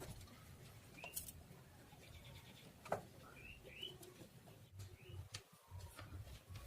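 Near silence with faint scattered clicks and taps from handling wires on the amplifier board, the sharpest about three seconds in, and a few faint short high chirps in the background.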